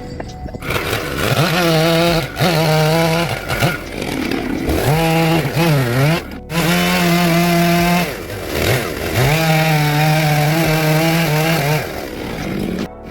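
Chainsaw carving wood, held at high revs in stretches of one to three seconds and dropping in pitch and rising again several times between cuts.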